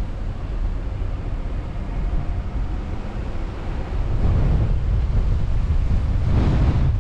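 Car driving, with a steady low rumble of road and wind noise buffeting the microphone. The noise swells louder about four seconds in and again, more strongly, near the end.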